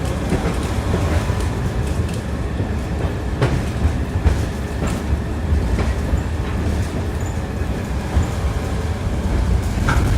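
Tram running on its rails, heard from inside the car: a steady low rumble with the ringing clatter of the wheels and a few sharp knocks as they pass over rail joints.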